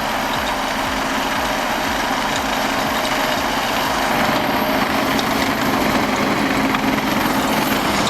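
A heavy engine running steadily under load, with a steady hum and low pulsing, growing a little louder about halfway through.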